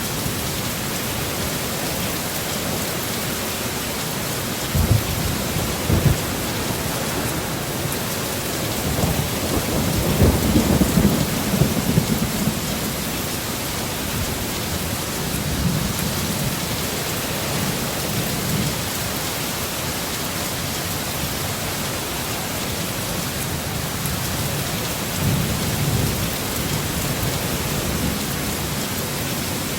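Heavy, steady rain hissing on a roof, with low rumbles of thunder: two short ones about five and six seconds in, a longer rolling one from about nine to twelve seconds, and weaker ones later.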